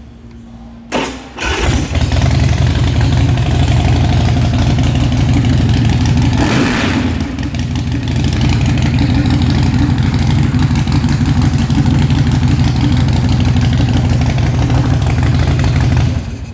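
2006 Big Dog Mastiff's 1918cc carbureted V-twin, breathing through Vance & Hines Big Radius pipes, cranked on the starter with the choke on and the compression releases pressed. It fires right up about a second and a half in and runs steadily at a loud idle, then shuts off suddenly near the end.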